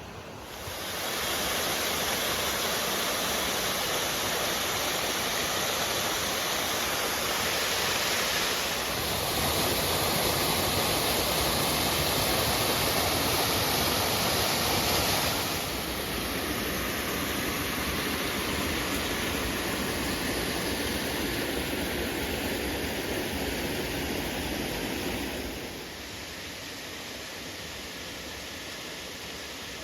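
Creek water rushing over rocks, a steady hiss that gets louder or quieter in sudden steps three or four times.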